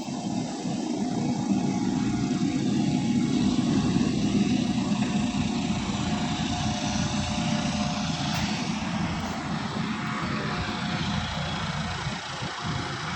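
Helicopter engine and rotor running steadily with a fast pulsing thrum, swelling a few seconds in and then easing off a little.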